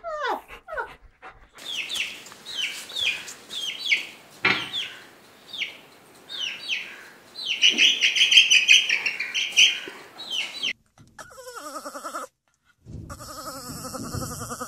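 A small bird peeping in a run of short, high, falling chirps, a few a second, that turns into a dense, continuous chattering for a couple of seconds. Near the end a lower, wavering dog call sounds over a steady hiss.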